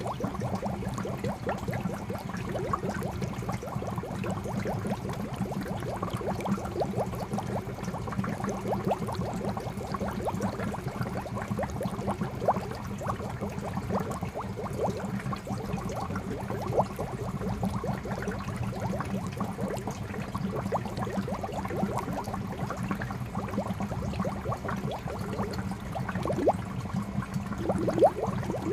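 Water from a fountain spout pouring into a koi pond, a continuous splashing and bubbling made of many small drops and plops, with a steady low hum underneath.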